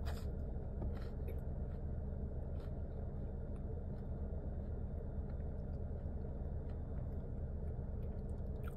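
Steady low rumble of a car's engine running, heard inside the cabin, with a few faint chewing clicks in the first few seconds.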